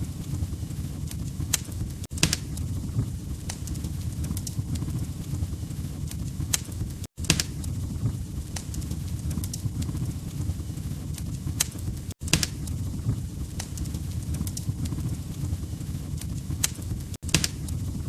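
Wood fire crackling: a steady low rumble of flames with scattered sharp pops and snaps. The sound cuts out for an instant about every five seconds.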